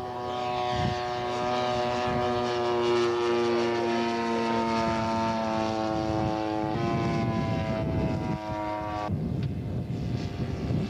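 Radio-controlled scale model airplane's engine running at high revs in flight, a steady multi-toned drone. Its pitch drops a little about seven seconds in and again about nine seconds in, where it turns rougher.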